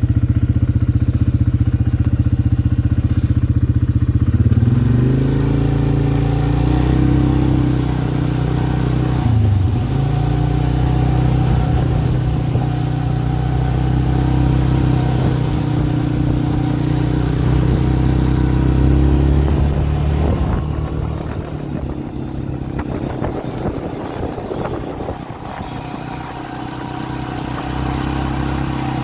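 An engine running steadily. Its pitch climbs about five seconds in and dips briefly near ten seconds, then turns rougher and a little quieter in the last third.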